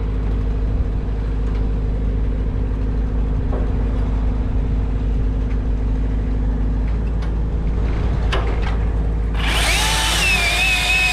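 An engine running steadily with a deep, even hum. About nine seconds in, a loud power tool starts with a high whine whose pitch wavers slightly.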